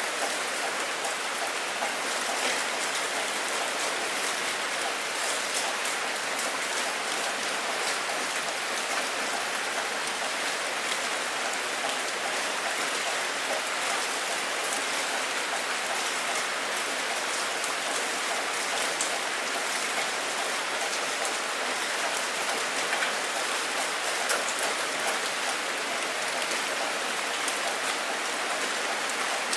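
Steady rain falling: an even, dense patter of drops that neither builds nor fades, with no thunder.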